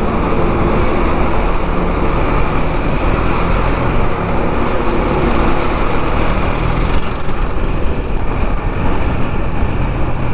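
KTM 390 Duke's single-cylinder engine running steadily while riding, mixed with the road noise of surrounding city traffic.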